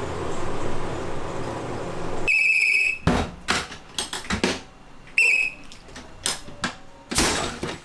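Steady noisy hum, then a shrill whistle blast about two seconds in, followed by a run of sharp knocks and clatters, a second short whistle near five seconds and a brief noisy burst near the end: a puffed-grain vendor's warning whistle at a ppeongtwigi machine.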